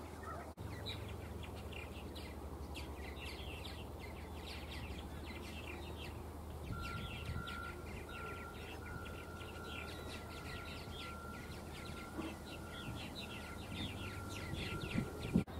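Many small birds chirping in a dense, rapid chatter of short high notes, over a steady low hum. From about seven seconds in, a thin, steady high tone runs alongside.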